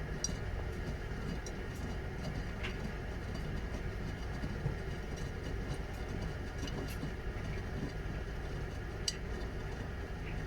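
Washing machine running steadily, with a few faint sharp ticks scattered through it.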